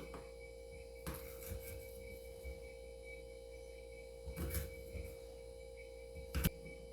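A steady hum on one tone, with a few faint clicks and knocks; the sharpest knock comes near the end.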